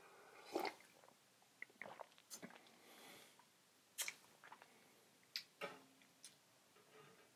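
Faint chewing: a scattered handful of short, sharp mouth clicks and smacks a second or so apart.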